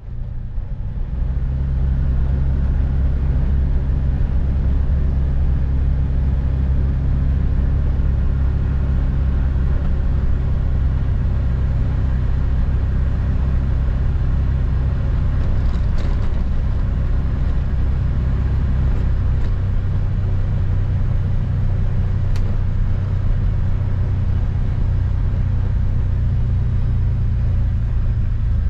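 A vehicle engine running steadily with a low drone, its tone shifting slightly a little past the middle, with a few faint clicks over it.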